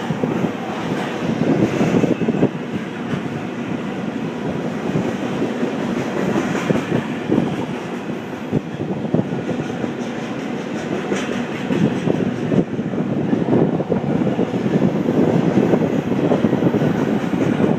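Double-stack intermodal container cars rolling past, a steady rumble of steel wheels on rail with frequent clacks over the rail joints.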